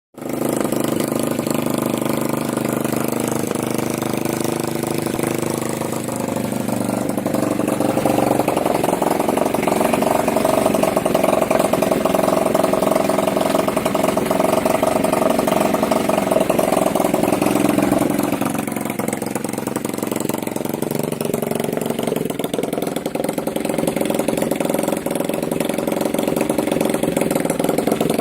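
Alpha 110cc single-cylinder four-stroke moped engine, coupled to a Muravey scooter's reduction gearbox, running steadily. Its speed rises about eight seconds in, holds, and drops back about ten seconds later.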